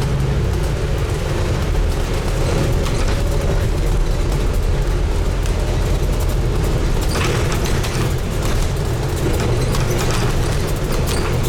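Scania N250UD double-decker bus's five-cylinder diesel engine running with a steady low rumble, heard from inside the bus at the front, with body and fittings rattling around the middle of the stretch.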